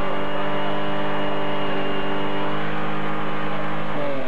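Vehicle engine held flat out at a steady high pitch, at its redline, with the revs starting to fall away just at the end.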